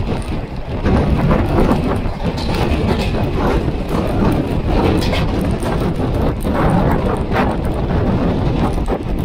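Express passenger train running at speed, heard from the moving coach: a steady rumble of wheels on rails with irregular clacks as the wheels pass over rail joints.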